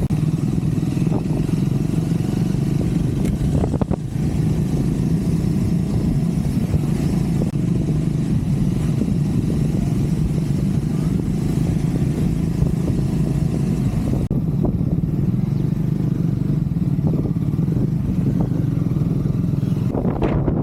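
Triumph Scrambler 400 X's single-cylinder engine running steadily as the motorcycle is ridden, with an even engine note and no big revving.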